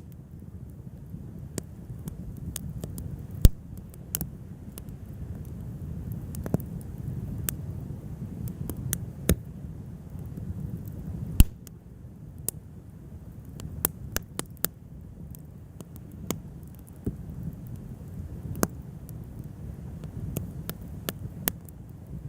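Wood fire burning, with irregular sharp crackles and pops of burning wood over a low steady rumble; two pops, about 3.5 and 11.5 seconds in, stand out as the loudest.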